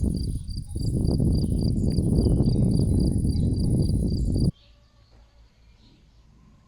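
Crickets chirping in a steady rhythm of about three chirps a second, over a loud low rumble. Both cut off suddenly about four and a half seconds in, leaving a much quieter background with faint scattered sounds.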